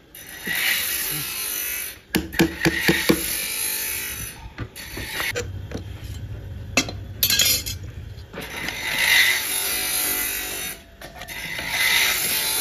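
Sawmill at work on a durian log: irregular knocks and clicks from the timber and the machine, with hissy rushes and a low steady hum for a few seconds in the middle.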